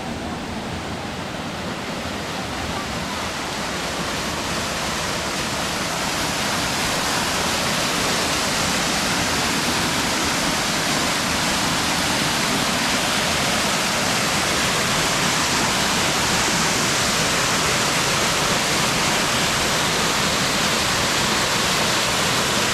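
Steady rushing of a waterfall, growing louder over the first several seconds and then holding even.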